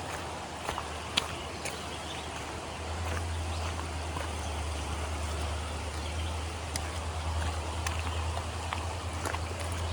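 A river running beside the trail, a steady rush of water, with a low rumble underneath that grows louder about three seconds in. Scattered light clicks of footsteps on the trail.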